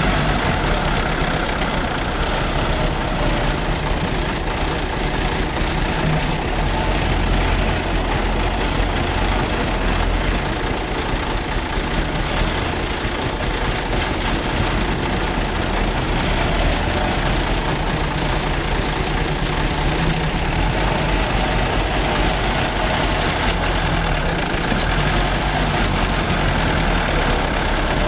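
Massey Ferguson 385 tractor's three-cylinder diesel engine running steadily with a diesel knock.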